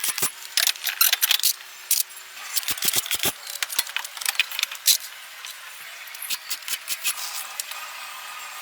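Irregular sharp clicks and light clatter of things being handled, many in quick succession, with a faint steady tone joining in near the end.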